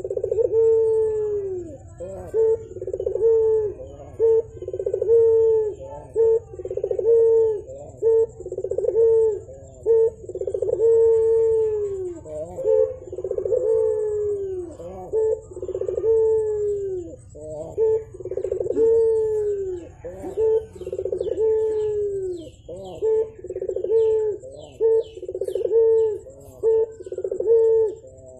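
Barbary dove (burung puter) cooing persistently, a run of low, falling coo notes repeated about once a second with hardly a break. Faint high chirps of smaller birds sound behind it.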